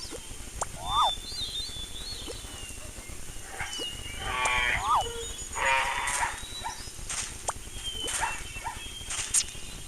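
Farm animal calls: two drawn-out calls about four and six seconds in, with bird chirps and short whistles throughout.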